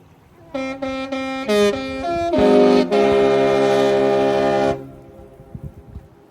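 Disney Treasure cruise ship's musical horn playing a tune: a quick run of about six short notes, then a long held chord of several tones that stops about two seconds later.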